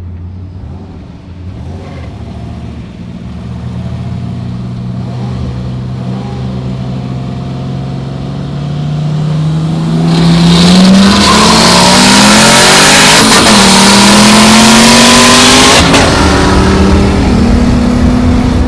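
Turbocharged Ecotec V6 in a Holden Commodore, heard from inside the cabin, rolling in second gear with its pitch slowly rising. About ten seconds in it goes to full throttle for a roll race: loud rushing noise and the revs climbing fast, a gear change, climbing again, then easing off at about sixteen seconds to a steadier drone.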